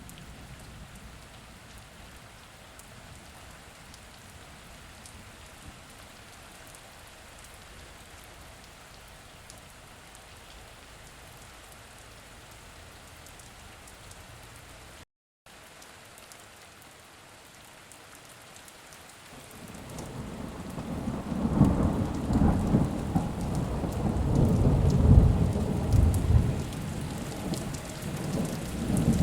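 Steady rain falling, an even hiss; the sound cuts out completely for a split second about halfway through. About two-thirds of the way in, a long roll of thunder builds up and keeps rumbling, loudest near the end.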